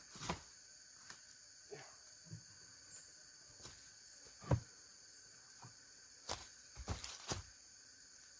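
Steady high-pitched chorus of forest insects, with about nine irregular knocks and clicks, the loudest about four and a half seconds in.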